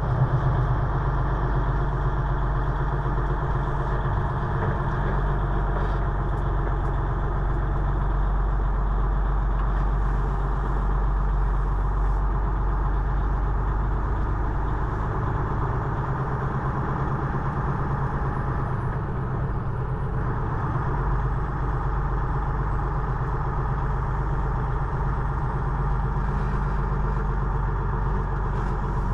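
Semi-truck diesel engine running steadily, an even low drone with no change in pitch.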